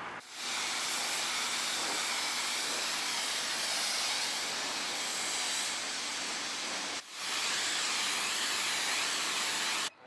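High-pressure spray lance at a self-service car wash spraying water onto a car: a steady hiss that breaks off for a moment about seven seconds in, then stops abruptly near the end.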